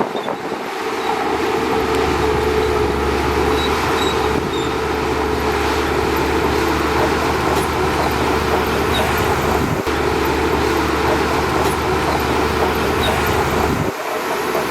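Shantui DH17C2 bulldozer running steadily under load, with engine drone and track noise, and a brief drop near the end.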